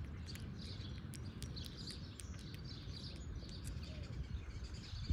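Small birds chirping repeatedly in the background over a low, steady outdoor rumble, with a scatter of faint clicks.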